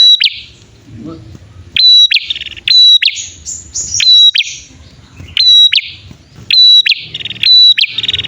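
Male and female prenjak (prinia) calling back and forth in a lure recording: sharp, high, down-slurred chip notes alternating with buzzy rattling notes, in quick bursts with short pauses.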